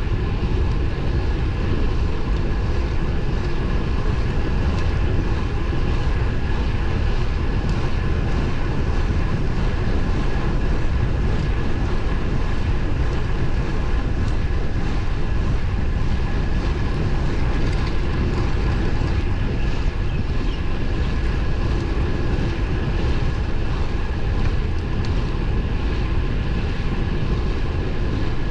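Wind and road noise from riding a road bike on pavement: a loud, steady low rumble with a faint steady whine above it.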